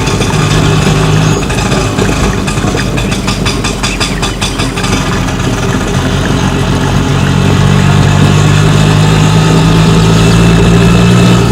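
Auto rickshaw engine idling, with a rapid rattle a few seconds in, then settling into a steadier, louder running hum in the second half.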